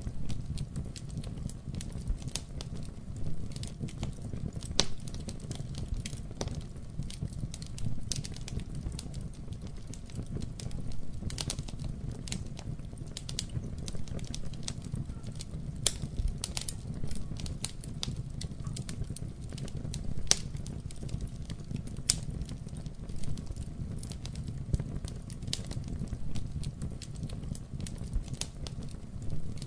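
Wood fire burning in a fireplace: a steady low rumble of flame with frequent, irregular sharp crackles and pops.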